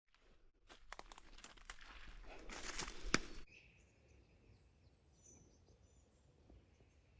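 Crunching and rustling with sharp clicks, growing louder for a couple of seconds and then cutting off suddenly, followed by quiet outdoor ambience with faint bird calls.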